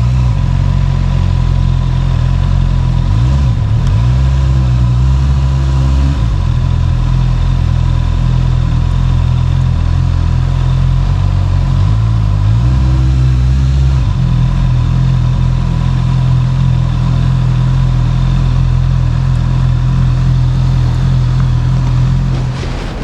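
Honda CB650R's inline-four engine running through its standard exhaust. The note mostly holds steady and changes pitch briefly twice, a few seconds in and about halfway through.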